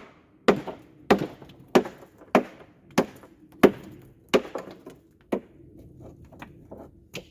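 A hammer striking bluestone in a steady series of sharp blows, about one every half second or so, knocking off protruding edges of stone on a pallet. The blows become lighter and more spaced near the end.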